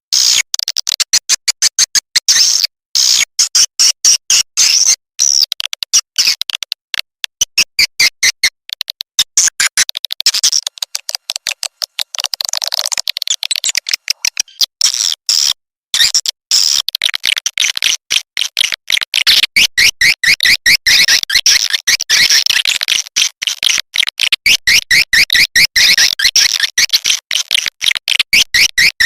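Swiftlet lure-call track: dense, rapid, high-pitched twittering chirps and clicks in quick chopped pulses with brief gaps, a sound played in swiftlet houses to draw in edible-nest swiftlets.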